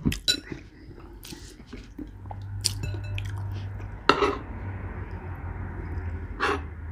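A spoon clinking and scraping in a bowl of chili beans, with close-miked chewing, and two louder bursts of eating noise about four and six and a half seconds in.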